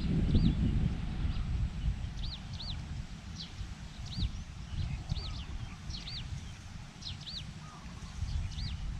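A bird calling over and over with short high arched chirps, often in pairs, over a low wind rumble on the microphone.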